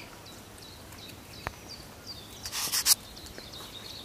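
Small birds chirping in short repeated calls, with a sharp click about one and a half seconds in and a brief loud burst of hiss shortly before the end.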